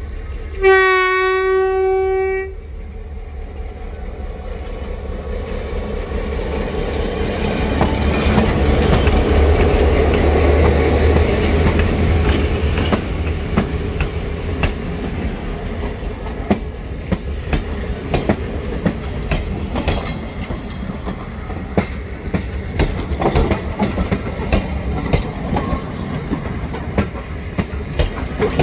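A diesel-hauled passenger train departing: the locomotive's horn sounds one steady blast of about a second and a half, then engine rumble builds as the train gets under way, and the coaches roll past with a steady clickety-clack of wheels over the rail joints.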